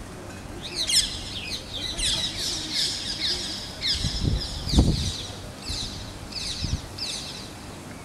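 Small birds chirping and twittering in quick runs of high falling notes, repeated every second or so. A few dull low thumps come about halfway through.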